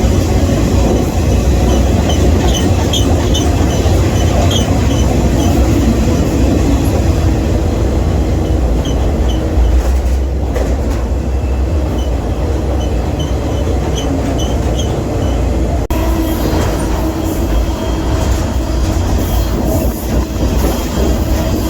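Freight train rolling at speed, heard from aboard a car: a loud, steady, heavy rumble of wheels on rail, with short high-pitched squeaks repeating in pairs through the first half. The sound changes abruptly about sixteen seconds in.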